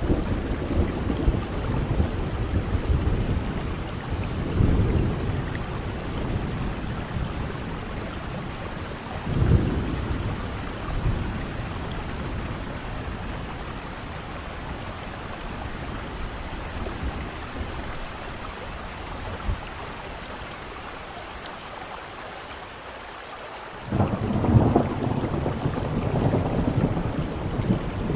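Steady rain in a thunderstorm, with rolling thunder: rumbles in the first ten seconds, a quieter lull, then a sudden loud peal of thunder about 24 seconds in that rumbles on.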